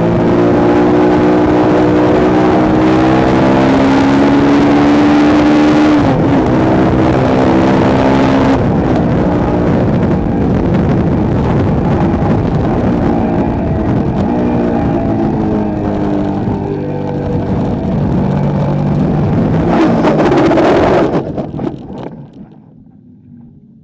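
Motorcycle engine running hard at a track, climbing in pitch and dropping back several times as it shifts up, under heavy wind rush. The sound cuts off sharply near the end.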